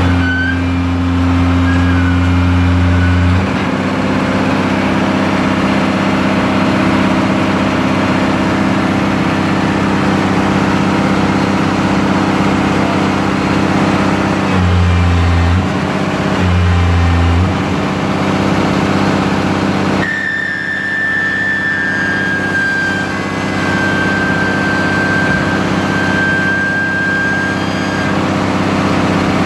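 Heavy-equipment engine running steadily, with a louder low hum coming in for the first few seconds and twice briefly around the middle. From about two-thirds in, a thin high whine holds for several seconds, sliding slightly down.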